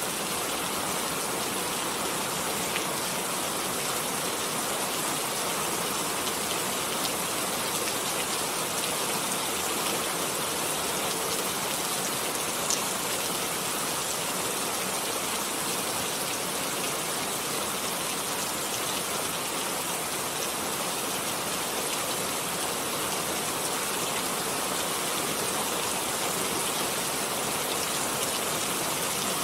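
Steady rain falling, an even hiss with a few distinct drop ticks now and then, one a bit louder about thirteen seconds in.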